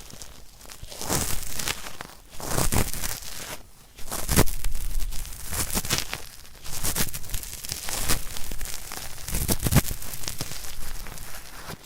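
Cotton swab scrubbed firmly against an ear microphone in ear-cleaning ASMR, a scratchy, crackling rubbing that comes in repeated irregular strokes with a brief lull partway through. It imitates working at hard earwax.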